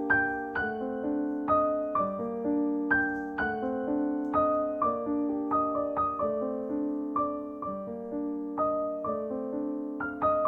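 Background piano music: a gentle melody of single struck notes with a steady pulse.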